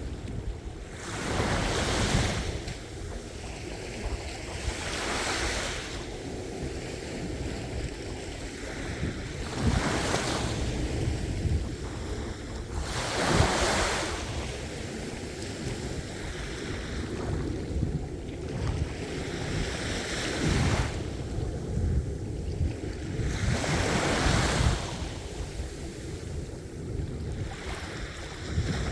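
Ocean waves breaking and washing in, a fresh surge every three to five seconds over a steady low rumble of surf.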